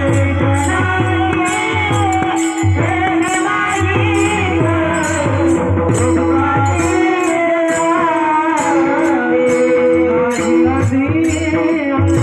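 Marathi kirtan music: a singer's voice gliding through a devotional melody over a steady held note, with regular strokes of small hand cymbals and a low drum beat.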